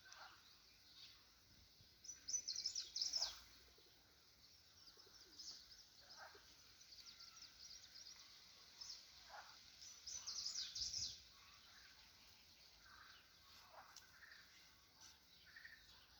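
Several birds singing: rapid, high twittering that comes in two louder bursts, about two seconds in and about ten seconds in, with short down-slurred call notes every few seconds in between.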